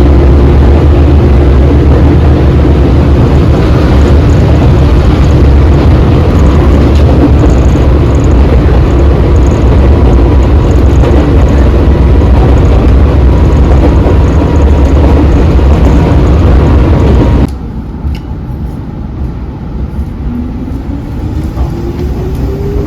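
Loud, steady vehicle running rumble. About 17 seconds in it cuts off suddenly to a quieter stretch, in which a motor whine rises steadily in pitch over the last few seconds.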